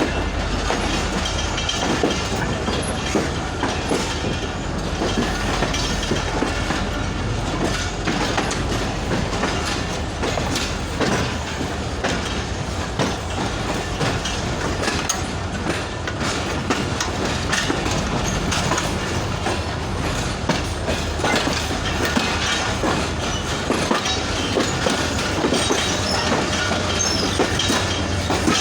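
Passenger train rolling steadily along the track, its steel wheels clattering continuously over rail joints with a steady low rumble and a faint wheel squeal at times.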